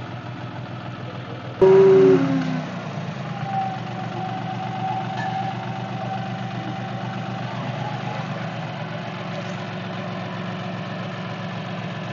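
Tractor diesel engine running steadily at low revs. About a second and a half in it gets suddenly louder for about half a second, dropping in pitch as it settles back.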